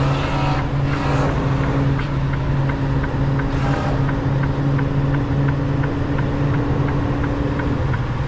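Semi-truck's diesel engine running steadily at low speed while the truck creeps through the yard, heard from inside the cab. A regular light ticking, about two or three a second, starts about two seconds in.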